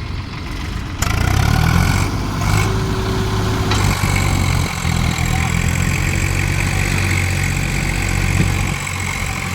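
Swaraj 744 XT tractor's diesel engine running, jumping louder about a second in as it is put under throttle, then holding steady.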